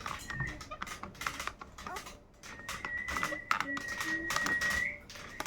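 Rapid irregular clicking and tapping, with a thin high whistle held steady for about two seconds in the second half that lifts slightly at the end, typical of a pet parrot.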